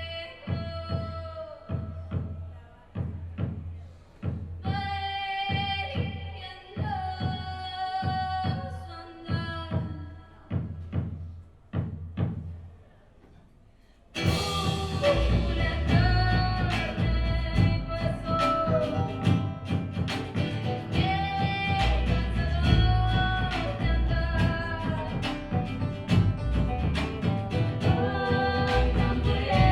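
A small folk band with acoustic guitar, banjo, double bass and percussion plays a song, with a held melody line over the instruments. The first half is sparse plucked playing that dies away almost to silence; about halfway in the full band comes in, with the double bass and drums.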